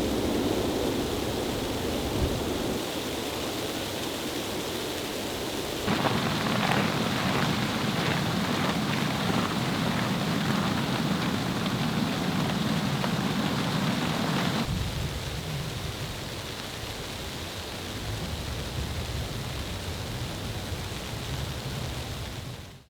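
Steady storm noise of wind and falling rain or snow, changing abruptly in tone about 6 seconds in and again about 15 seconds in, with scattered light ticks between about 6 and 10 seconds in.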